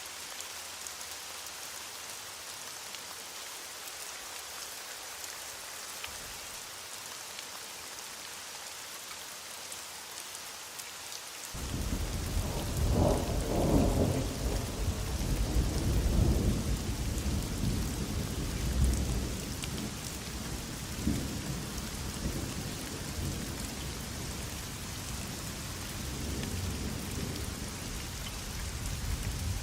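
Heavy rain falling steadily. About a third of the way in, a roll of thunder starts suddenly and is loudest for a few seconds, then rumbles on more softly.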